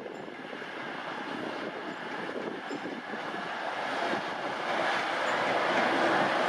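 A train running on the rails, its wheel-on-rail rumble growing steadily louder as it draws nearer.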